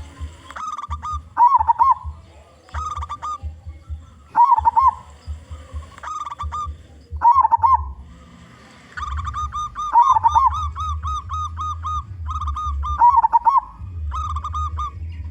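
Zebra dove (perkutut) cooing in repeated short rolling phrases, with a faster run of notes from about nine seconds in. A steady low rumble lies underneath.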